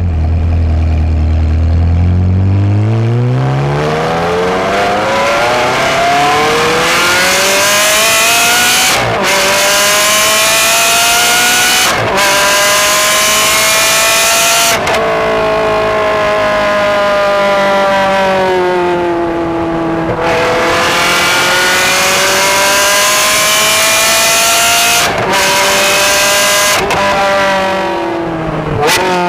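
Ferrari 360 Modena's 3.6-litre V8 through an aftermarket exhaust, heard at the tailpipes while the car is driven. It starts low, climbs steadily in pitch under acceleration, then rises and falls repeatedly, with short sharp breaks in the sound at gear changes.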